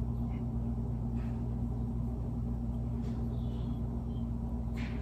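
Steady low mechanical hum, unchanging in pitch and level, with a few faint soft ticks of handling.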